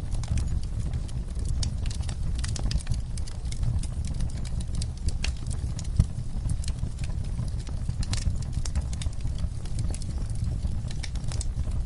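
Wood fire crackling in a fireplace: irregular sharp pops and snaps over a steady low rumble of the flames, with one louder pop about six seconds in.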